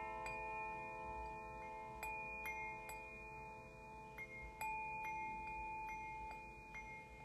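Tuned metal percussion played gently: single ringing notes struck about once a second, each holding on and overlapping the next in a soft wash of tones.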